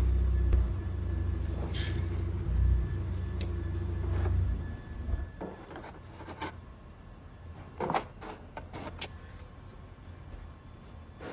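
A car engine idling with a steady low rumble that cuts off about four and a half seconds in, followed by several short sharp clicks and knocks.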